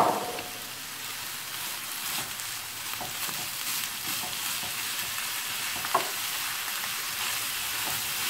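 Pork mince with onion and carrot sizzling steadily in a hot oiled frying pan as a wooden spatula stirs and scrapes through it, with one sharper click about six seconds in.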